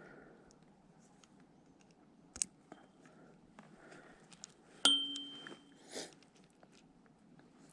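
Close handling noises: scattered light clicks, a sharp knock, and a metallic clink about five seconds in that rings briefly, followed by a short rustle.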